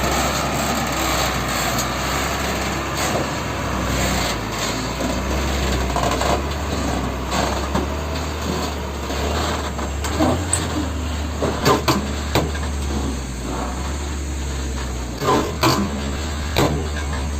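Heavy dump truck engine running steadily with a low drone. In the second half come several sharp knocks, some close together in pairs or threes.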